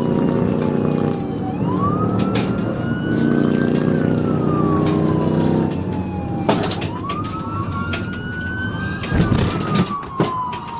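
Police car siren wailing, each cycle a quick rise and a long slow fall, over the pursuing patrol car's engine running hard. The engine drops back about halfway through, and several sharp knocks follow.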